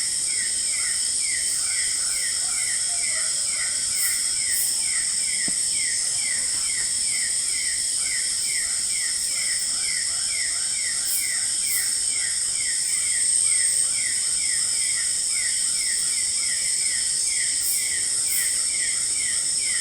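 Tropical forest at night: a steady high-pitched chorus of insects, with a short chirp repeating evenly two or three times a second.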